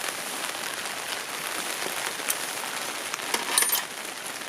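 Steady rain falling, a continuous patter flecked with small drop clicks, with a short, louder clatter of clicks about three and a half seconds in.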